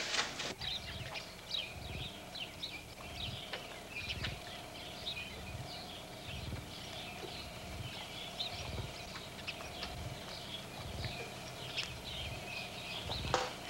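Small birds chirping over and over in short high notes, over a faint steady hum and irregular low thumps.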